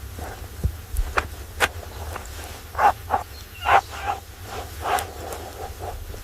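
Several short animal calls over a steady low rumble, with scattered sharp clicks.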